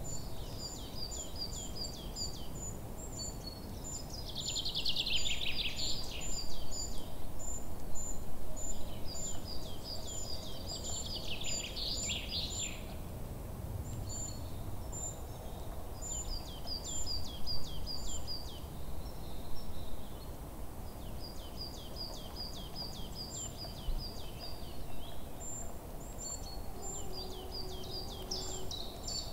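Birdsong: several birds repeating short, high chirps and rows of quick descending notes, with two louder, denser descending phrases about four and ten seconds in.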